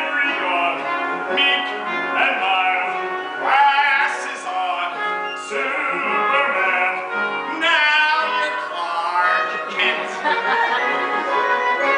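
Singing with instrumental accompaniment: a show tune from a stage musical, sung in wavering, held phrases.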